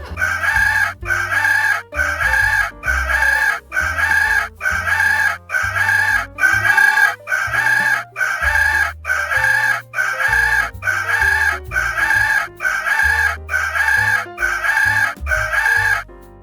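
Chicken-like clucking calls repeated on a strict, even beat, a little under one a second, over a stepping bass line: a chicken-sound music track. It cuts off shortly before the end.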